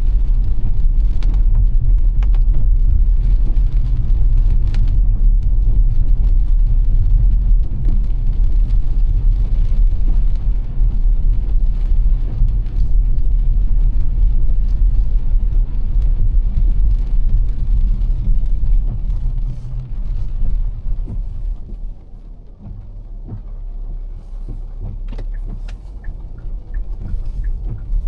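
Car driving on rain-soaked streets in heavy rain, a steady low road rumble that drops quieter about three-quarters of the way through. A run of light, regular clicks comes in near the end.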